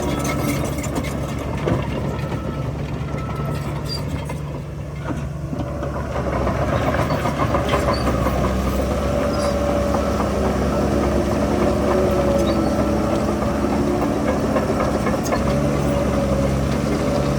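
Heavy diesel engine of earthmoving machinery running steadily; it eases off briefly about a third of the way in, then picks up and holds a higher, louder note.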